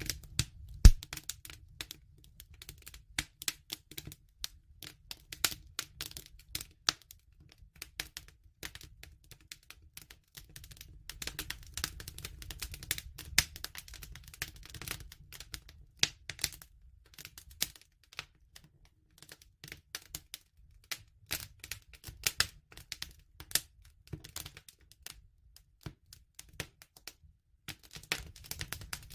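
Wood fire crackling: irregular sharp pops and snaps over a low steady rumble, with one loud pop about a second in.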